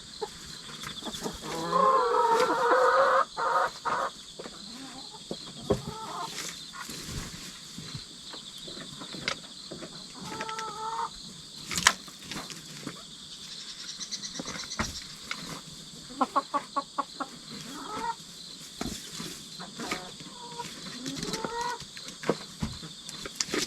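Hens calling and clucking, with one loud, drawn-out squawk about two seconds in and shorter clucks and quick clucking notes later on. Insects chirr steadily in the background.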